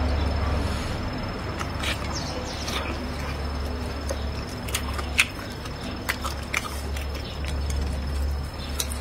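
Close-up eating sounds: wet chewing and lip smacks on soft, gelatinous braised meat, with small chopstick clicks against the bowl and a sharp click about five seconds in, over a steady low hum.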